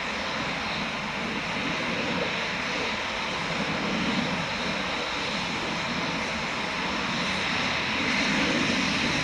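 Eurofighter Typhoon jet engine noise across the airfield: a steady rushing sound that grows slightly louder near the end.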